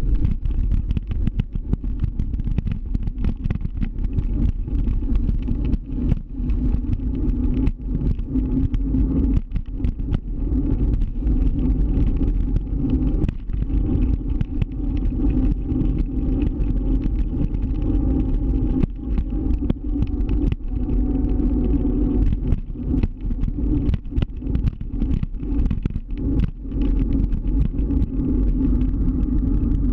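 Riding an electric scooter: a heavy, steady low rumble of wind and road noise with a steady hum underneath, broken by frequent brief dropouts.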